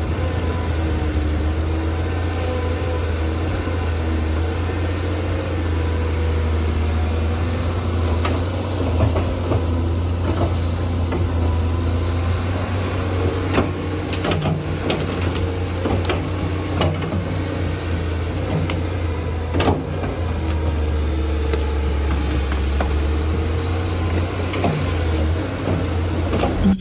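Tractor engine running steadily with a low hum at an even speed, with scattered clanks and knocks over it.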